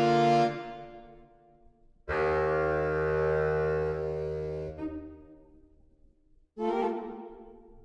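Saxophone quartet music being played back: long held chords, each stopping and dying away, with a pause before the next. A fuller chord with a low baritone sax note underneath comes in about two seconds in, and a third chord enters near the end.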